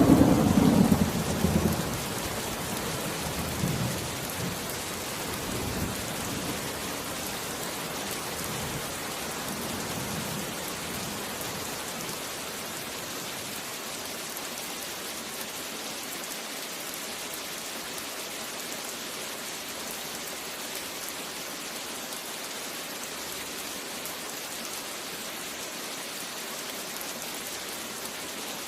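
Steady rain with a thunderclap rumbling away in the first couple of seconds, a few weaker rolls of thunder over the next ten seconds, then rain alone.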